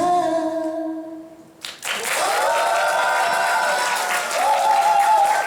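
Singing: a held note fades out at the start, and after a brief pause long held notes are sung, as of several voices together.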